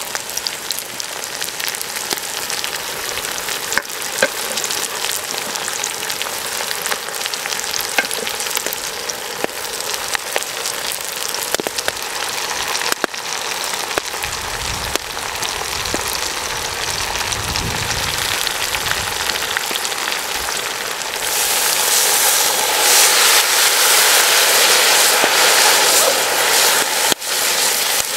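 Chicken legs, potatoes and carrots sizzling in hot fat in a metal cauldron over a wood campfire, a steady hiss with frequent small pops and crackles. The sizzle grows louder and brighter about two-thirds of the way through.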